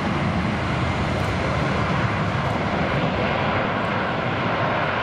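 Twin-engine jet airliner passing on its landing approach, its engines making a steady noise with no clear change in pitch or loudness.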